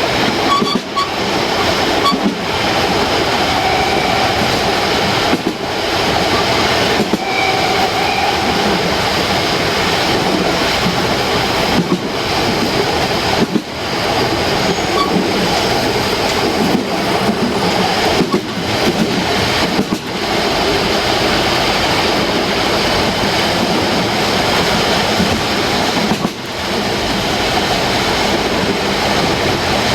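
Harz narrow-gauge steam train running along the track: a steady rolling noise from the wheels and coaches, with a faint short squeal twice, around 4 and 8 seconds in.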